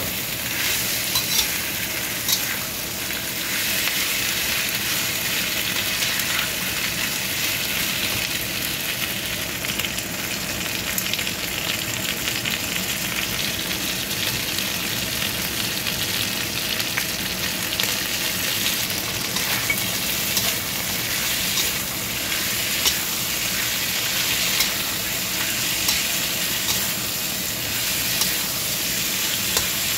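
Chicken pieces and onion sizzling as they fry in a wok, with a metal spatula stirring and knocking against the pan now and then.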